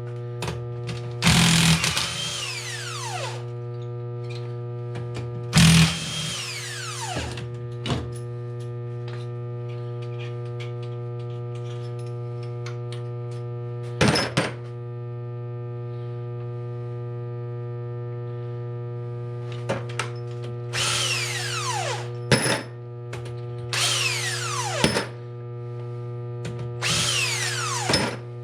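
Power drill run in short bursts of a second or two, about six times, each ending in a falling whine as the motor spins down, as it backs out bolts on a 1981 Honda CB900F engine's cases. A steady hum runs underneath.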